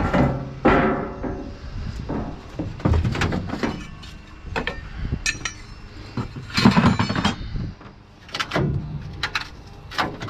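Irregular metal clanks and knocks, several of them ringing on, as the sheet-metal casing of an air conditioner unit is handled and taken apart.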